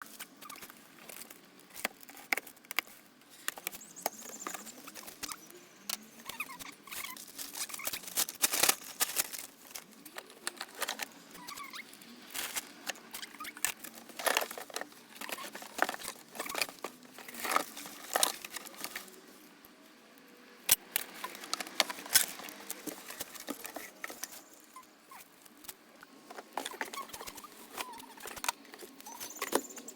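Irregular rustling, scraping and sharp clicks and knocks of packaging and shredder parts being handled during unboxing and assembly.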